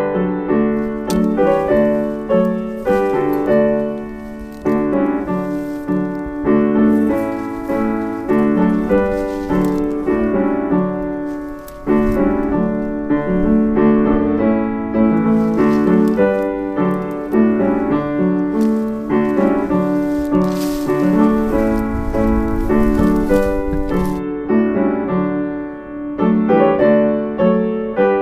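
Piano music playing continuously, a steady run of notes.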